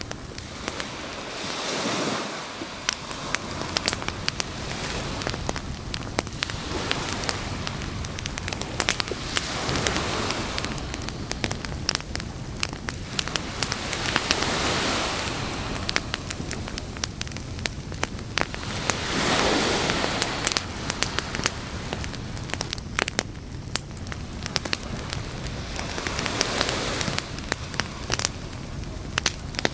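Beach campfire crackling with frequent sharp pops, over waves washing in as slow swells every few seconds.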